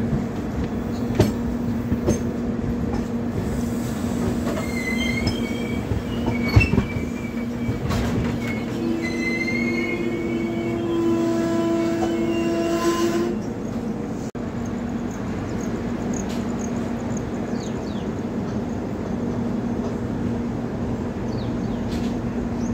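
Passenger train running along the track, a steady rumble and hum with a few sharp clanks from the wheels early on. The wheels squeal, with short high screeches about a fifth of the way in, then a long, loud squeal from about 9 to 13 seconds before it settles back to plain running noise.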